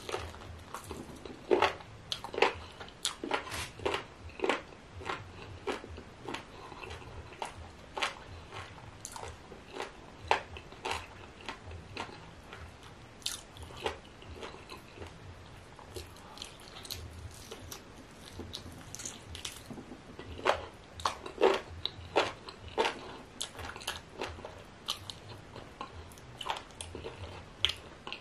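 Close-up mukbang eating sounds: a man chewing and biting food eaten with his fingers from ogbono soup, with irregular wet mouth smacks and short clicks as he sucks his fingers.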